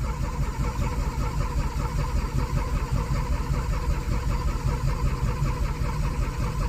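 Starter cranking the cold carbureted V6 of a 1985 Maserati Biturbo in a steady, even rhythm, the engine not yet catching after sitting for a couple of weeks.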